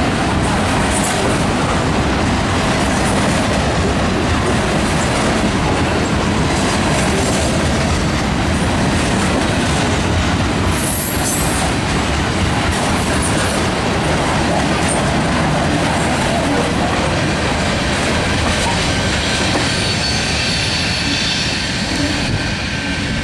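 Freight train cars rolling past at close range, steel wheels clattering over the rail joints in a steady loud rumble. A brief high-pitched wheel squeal comes about eleven seconds in.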